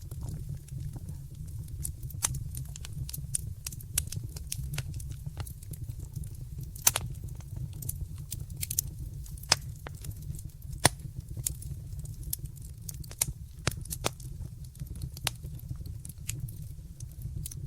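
Wood fire crackling in a fireplace: irregular sharp pops and snaps over a steady low rumble of the flames, with a few louder pops around the middle.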